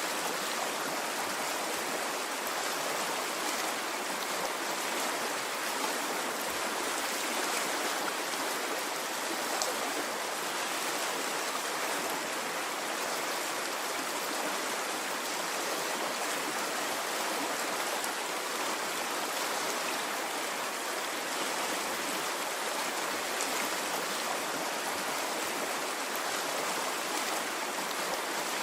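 Water running in a stream: a steady, even rushing with no rise and fall of waves.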